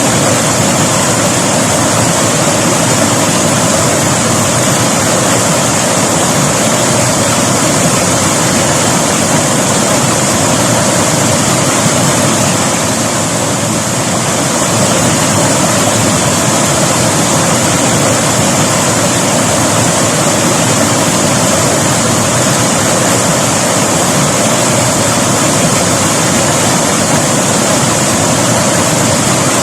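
River water rushing and splashing over rocks, a loud, steady, unbroken flow.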